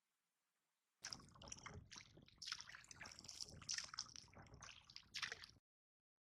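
Water splashing and sloshing in uneven bursts, cutting in about a second in and cutting off abruptly near the end.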